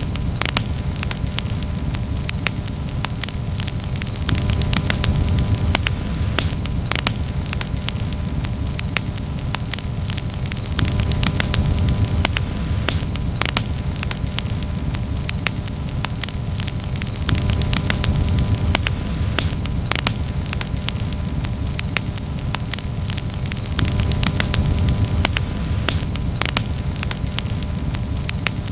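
Wood campfire burning, with many irregular sharp crackles and pops over a steady low rumble of the flames.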